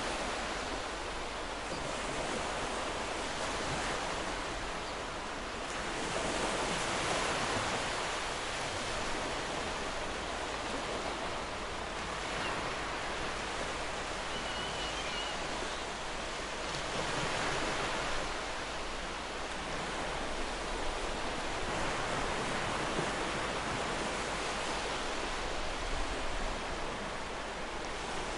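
Ocean surf: a steady wash of waves breaking and running up the shore, swelling and easing every several seconds.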